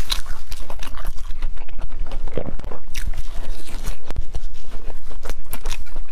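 Close-miked chewing and biting of fried red bean cloud bread: a dense run of quick wet mouth clicks and smacks, with no speech.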